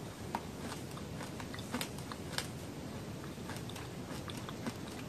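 Close-miked chewing of a small cake snack with red jam filling: scattered small wet clicks and smacks from the mouth over a steady background hiss.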